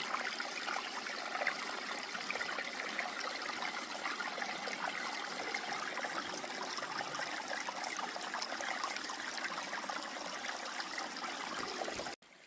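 Small mountain stream trickling and splashing steadily, cutting off suddenly near the end.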